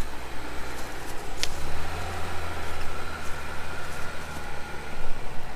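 Jeep engine running low and steady while crawling a rocky trail, with one short sharp click about a second and a half in.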